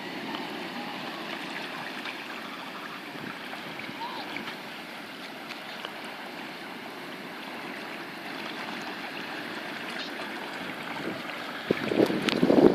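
Steady outdoor noise of wind and lake water, with wind gusting onto the microphone in loud, irregular rumbles near the end.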